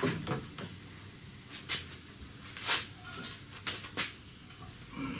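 A few scattered clunks and clicks, about five over several seconds, from a van's lower control arm being worked back into its mount, over a faint steady hiss.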